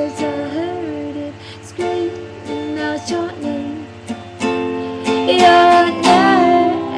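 A plucked string accompaniment with singing over it, in a song's closing bars. The voice holds long, wavering notes near the end.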